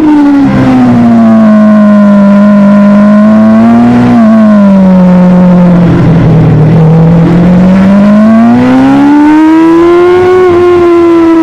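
Superbike engine running at high revs: the note drops as the bike slows, stays low for several seconds, then climbs steadily back up as it accelerates again near the end.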